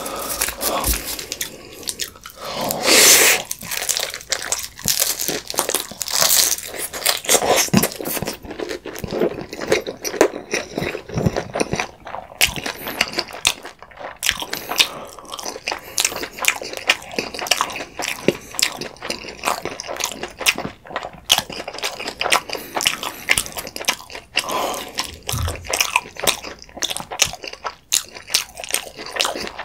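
Close-miked biting and chewing of a slice of thin-crust pizza topped with creamy pasta. The crisp crust crunches in many quick, crackling clicks, loudest about three seconds in.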